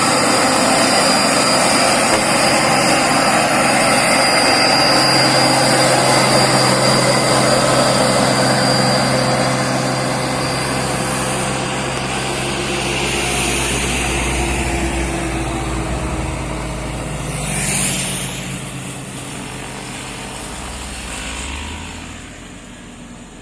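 Heavy truck engine labouring up a steep grade. It is loud for the first several seconds, then eases and fades, with a brief swell about three-quarters of the way through.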